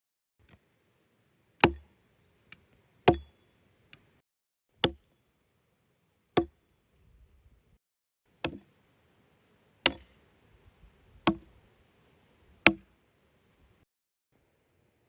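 Firewood being chopped: eight sharp, separate blows about every one and a half seconds.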